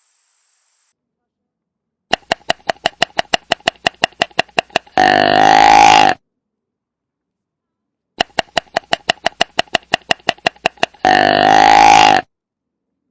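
An animal call, played twice: a rapid run of pulses, about eight a second for about three seconds, then a deep, pitched call of about a second that stops abruptly.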